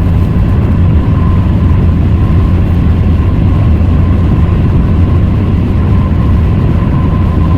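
Steady low rumble of a car's engine and tyres heard inside the cabin while driving, with a faint steady high tone over it.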